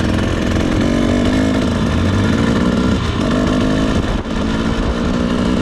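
Two-stroke dirt bike engine running under changing throttle, its pitch rising and falling, with a brief drop in power about four seconds in.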